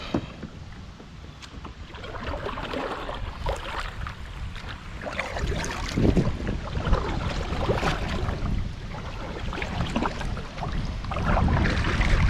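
Wind buffeting the microphone over water lapping and splashing against a kayak, the wind rumble growing louder near the end. A sharp click right at the start.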